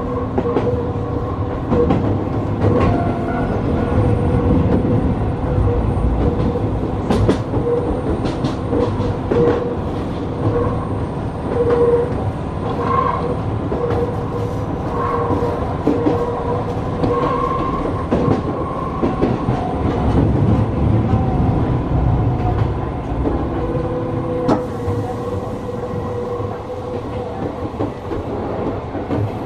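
Gakunan Railway electric train running along the line, heard from the front of the train: a steady rumble of wheels on rails and a running hum, with scattered clicks from the track.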